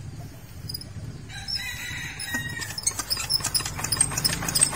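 A rooster crows once, about a second in, over a low steady engine hum. In the second half, quick, irregular clattering knocks grow louder.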